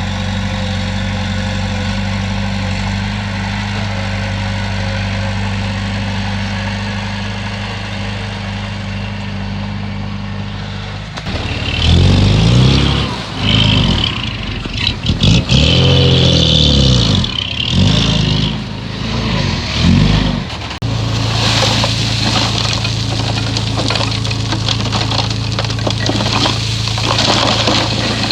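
Komatsu bulldozer's diesel engine running steadily, then for about ten seconds revving up and down in several quick swells with a high whine over it, before settling back into a steady run.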